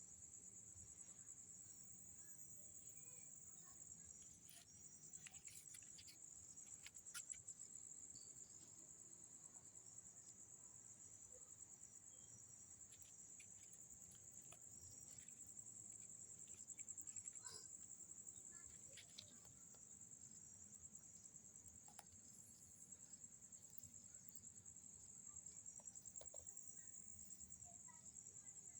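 Faint, steady high-pitched chirring of night insects such as crickets, with a few faint scattered clicks and ticks.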